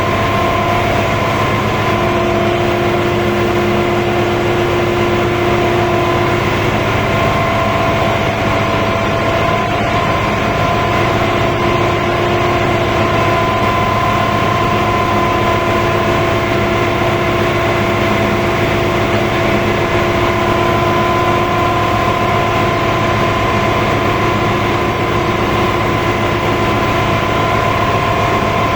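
Machinery in a ship's engine room running steadily and loudly: a constant low drone with several steady whining tones that fade in and out over the seconds.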